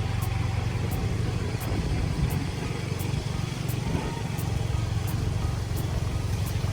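Motorbike engine running steadily under way, with road and wind noise.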